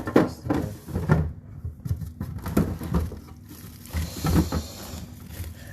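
Frozen food packets being handled and moved about in a fridge-freezer: a series of irregular knocks and rustles, with a plastic-bag crinkle about four seconds in.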